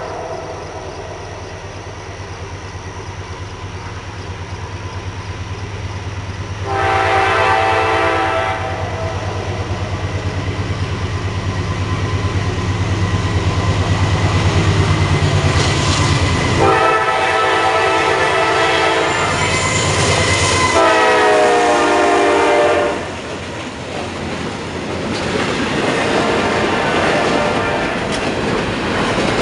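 Diesel locomotive horn sounding several blasts as a train passes, its chord dropping in pitch as the locomotive goes by about two-thirds of the way in. Between and under the blasts, the locomotive's diesel engine throbs and the wheels click over the rail joints.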